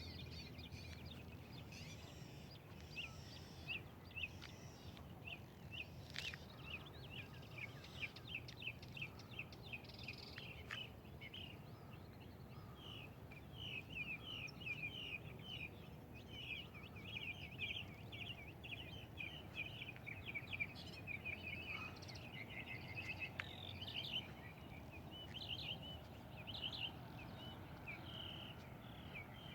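Birds chirping, many short calls quickly overlapping and busiest in the second half, over a low steady background rumble.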